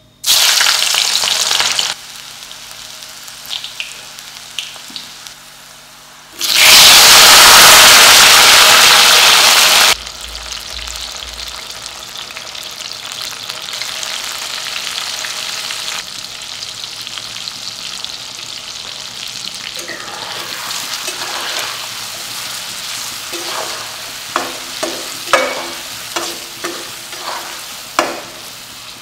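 Hot oil sizzling in a steel kadai, with a sharp burst as sliced garlic drops in at the start and a louder burst of sizzling for about four seconds partway through. Tomatoes with spice powder frying steadily follow. Near the end, a metal spatula stirring and knocking against the pan about a dozen times.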